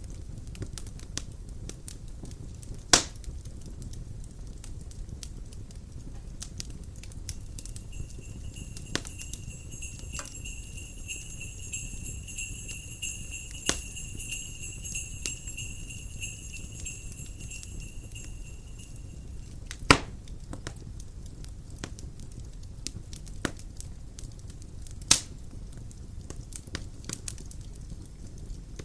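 Wood fire crackling, with many small snaps and three sharp loud pops, over a low steady rumble of wind. Jingle bells ring continuously from about a quarter of the way in until about two-thirds through, then stop.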